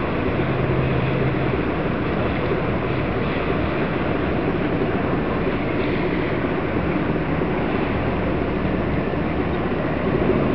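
A small channel ferry running: a steady engine drone under wash of water and wind on the microphone.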